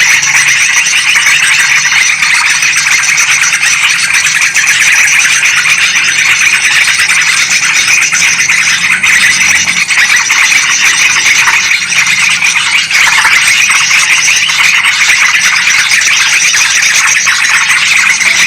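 Dense, loud, unbroken chorus of agitated bulbul chatter: yellow-vented bulbul (trucukan) and sooty-headed bulbul (kutilang) calls layered together as a bird-trapping lure mix.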